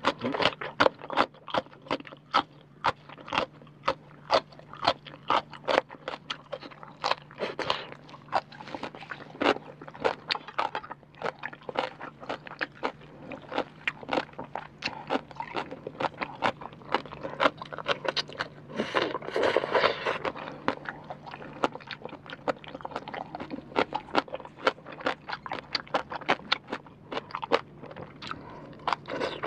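Close-miked crunchy chewing of a rau tiến vua (celtuce stem) salad: crisp, rapid crunches, a few a second, with a denser burst of crunching about two-thirds of the way through.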